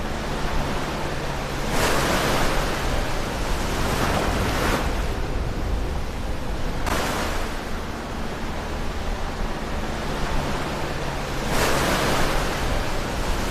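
Ocean waves breaking close to the shore: four waves break in turn, each a surge of hissing surf that rises and fades, over a steady low rumble of the sea.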